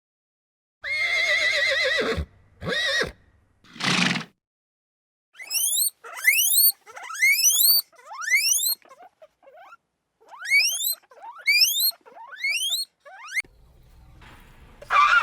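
Horse neighing: a long wavering whinny about a second in, then two shorter calls. It is followed by a run of about a dozen quick, steeply rising squeaks, and a short harsh call near the end.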